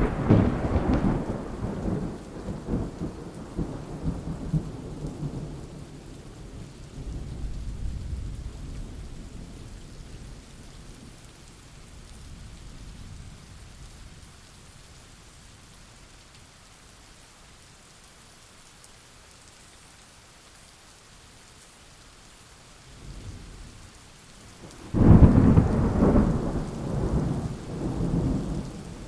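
Thunderstorm with steady rain: a rolling thunder rumble fades away over the first several seconds, leaving the hiss of rain, then a sudden loud thunderclap a few seconds before the end rolls on in several surges.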